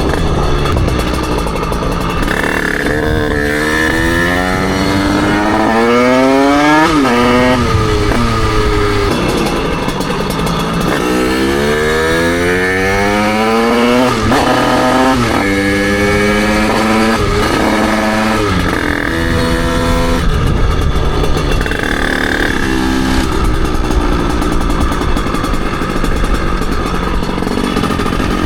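Derbi Senda 88cc two-stroke moped engine accelerating hard through the gears while riding: the pitch climbs and then drops sharply at each shift, several times in the first two-thirds. After that it runs more evenly at lower revs, with steady wind and road noise throughout.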